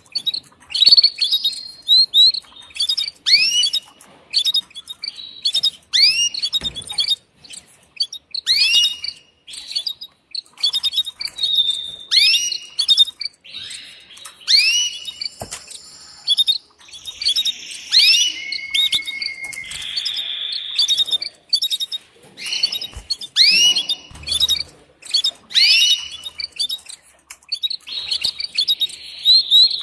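Female canary mating calls: short chirps sweeping down in pitch, repeated in small groups every second or two, with a few brief held trills in between. This is the call a hen canary uses to court a male.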